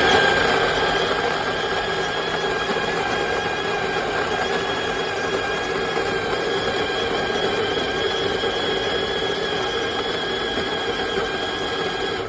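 Electric conical burr coffee grinder running, grinding beans at a coarse setting: a loud, steady motor whine with a rough grinding noise. It runs through a full timed grind cycle and cuts off suddenly at the end.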